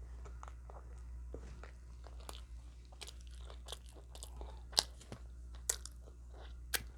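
A person eating close to the microphone: chewing with sharp, crisp crunches, the loudest three in the second half, over a low steady hum.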